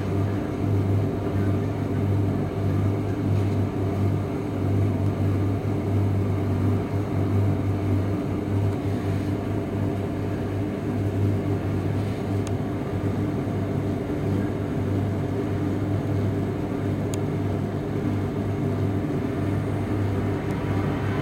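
Primus commercial tumble dryer running with a steady low hum from its drum motor and fan.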